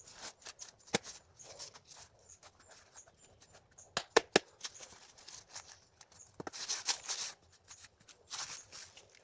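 Rustling handling noises broken by sharp clicks: one about a second in, three in quick succession about four seconds in, then a longer stretch of rustling near the end.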